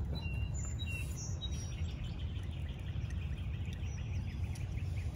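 Birds chirping outdoors: a few short high chirps in the first second, then a rapid run of repeated chirps, about five a second. A low steady rumble runs underneath.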